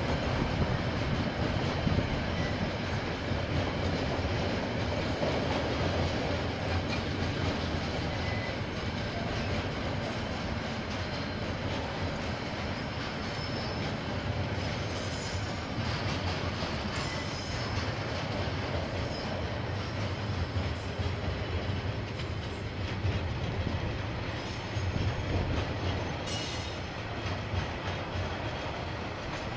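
KiwiRail train rolling past on the track, a steady rumble of wagons and wheels. A few brief high wheel squeals come around the middle and again near the end.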